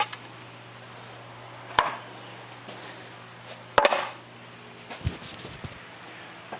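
Pieces of wood dropped and set down, knocking against a hard floor: a sharp knock about two seconds in, a louder double knock about four seconds in, and a softer thud about five seconds in.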